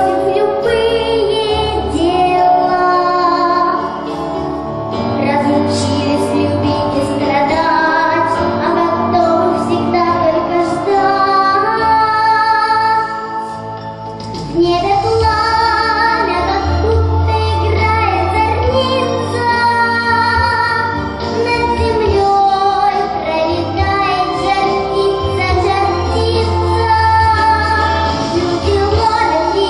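A girl singing a song with instrumental accompaniment and a steady bass line.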